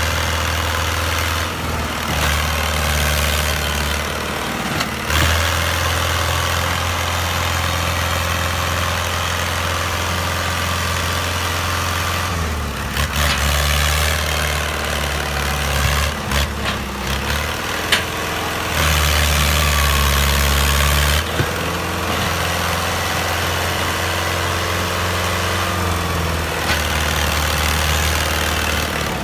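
Tractor engine running steadily, its low hum changing pitch a few times.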